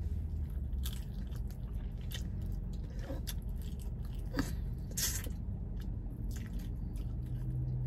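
A person chewing chicken wings close to the microphone: soft wet mouth sounds with scattered small smacks and clicks.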